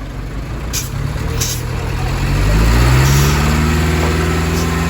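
Heavy truck's diesel engine revving up, its pitch rising over the first couple of seconds and then holding high and loud. Two short hisses come a little after a second in.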